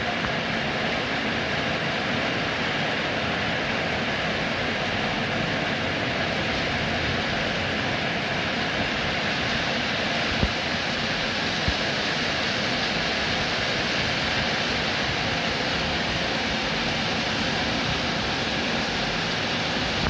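Steady rain, an even hiss with a couple of brief louder taps of drops a little after the middle.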